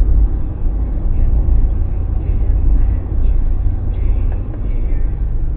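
Steady low rumbling noise, loud and without a clear pitch.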